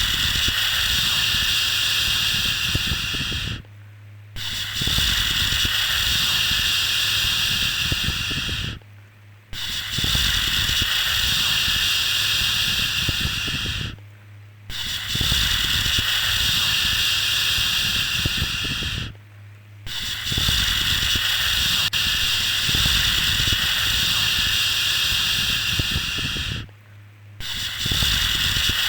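Repeated long 'shhh' shushing sounds for soothing a baby, each held for about four to seven seconds and broken by short pauses of under a second, with a faint low hum beneath each shush.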